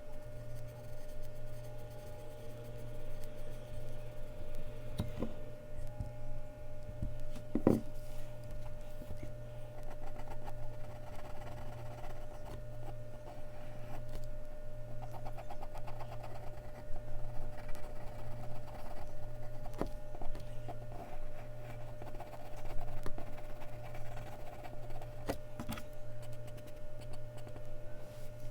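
Mechanical pencil shading on Bristol paper: quick, even back-and-forth strokes, with a few sharp taps, over a steady low hum.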